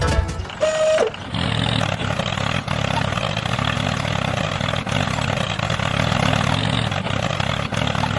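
A brief steady beep, then an engine starts about a second in and runs steadily.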